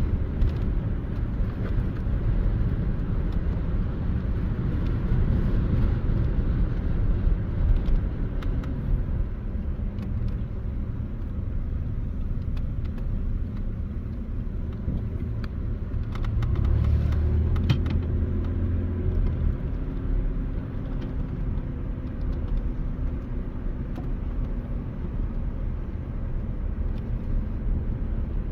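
Car driving, its engine and tyre noise making a steady low rumble. A deeper engine hum swells for a few seconds a little past the middle.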